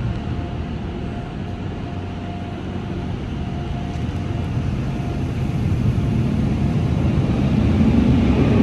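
PDQ LaserWash 360 Plus Max Air dryer blowers running with a steady rush of air over a truck, growing louder toward the end.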